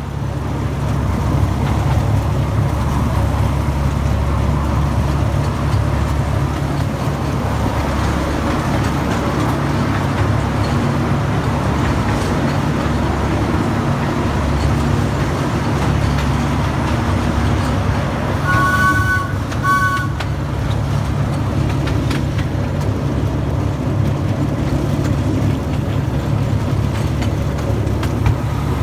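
Miniature railway locomotive running with a steady low rumble, giving two short toots on its two-tone horn about two-thirds of the way through.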